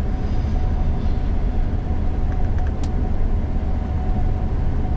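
Gleaner combine harvester running steadily, heard inside the cab: a constant low drone with a thin steady whine over it. A few faint clicks come about halfway through.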